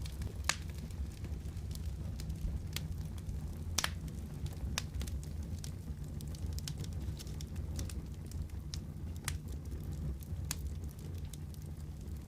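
Wood fire crackling in a fireplace: irregular sharp pops and snaps, two of them louder about half a second in and near four seconds, over a steady low rumble.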